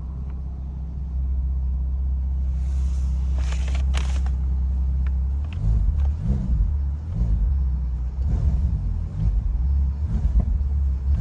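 The Bentley Continental GTC Speed's twin-turbo W12 engine running with a steady low drone. About five and a half seconds in, the low rumble turns uneven.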